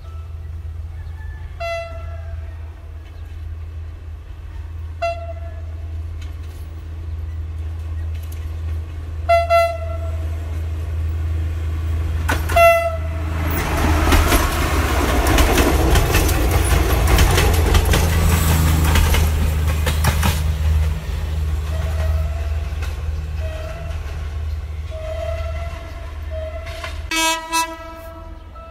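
Philippine National Railways diesel train sounding its horn in short blasts about five times as it approaches, then passing close with loud wheel and engine noise for several seconds. Near the end a train horn sounds twice.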